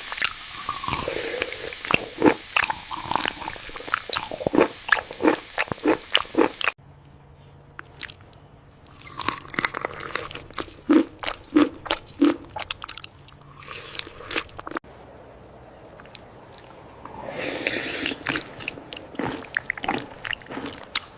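Close-miked eating: chewing and biting with wet mouth smacks and clicks. The sound breaks off abruptly twice, about a third and about two-thirds of the way through.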